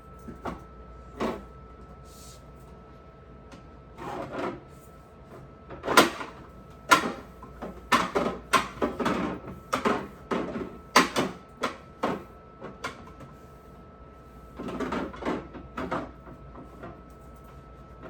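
Plastic refrigerator drawers and shelves being handled, slid and knocked into place: a run of irregular knocks and clatters, busiest in the middle, over a faint steady hum.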